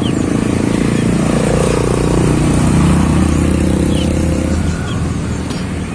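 A motor vehicle engine running close by, its pitch rising about a second and a half in and the sound dropping away after about four and a half seconds. Small birds chirp briefly now and then.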